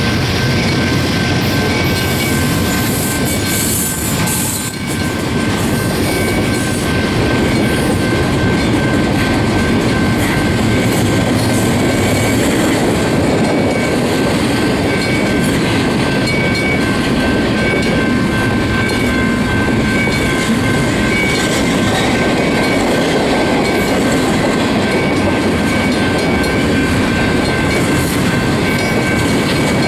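Double-stack intermodal container train's well cars rolling past at speed: a steady, loud rumble and clatter of steel wheels on rail, with a thin steady high tone running through it.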